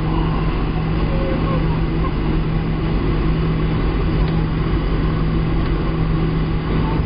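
Boeing 737-700 cabin noise: its CFM56-7B jet engines and the airflow make a loud, steady rush with a constant low hum, as heard from inside the cabin.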